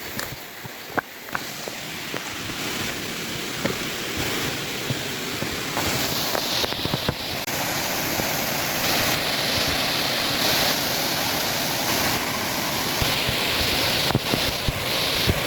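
Mountain stream rushing over rocks in a mossy gorge, a steady water noise that grows louder as the first waterfall comes near, with occasional short clicks.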